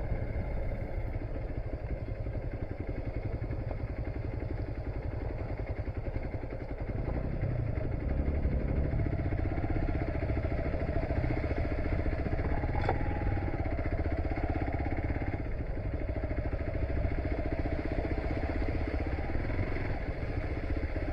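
Motorcycle engine running as the bike is ridden, getting louder about a third of the way in as it pulls harder. There is one short click about midway.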